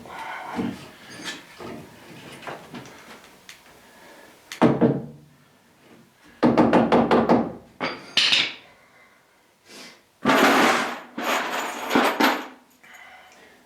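Power drill working on wooden framing in short bursts: a rattling run of rapid strokes, a short high whine, then a longer steady run. Knocks and clatter of handled boards come in between, with one sharp loud knock about four and a half seconds in.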